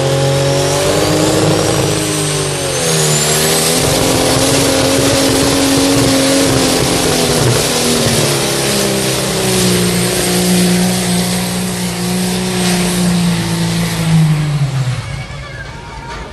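Modified-class pulling tractor's engine running at full throttle during a pull, its note dipping and rising in pitch, with a high whine that climbs over the first few seconds. The engine dies away near the end.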